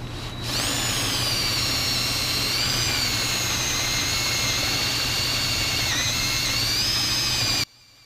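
High-speed rotary power tool whining steadily as it cuts into the factory fuel pressure regulator to gut its insides. It starts about half a second in, its pitch dips briefly under load around six seconds, and it cuts off abruptly near the end.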